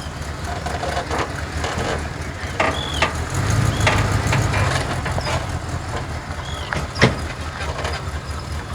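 Car engine rumbling steadily, growing louder for a couple of seconds in the middle as a car passes. A few short high chirps and a sharp click about seven seconds in sound over it.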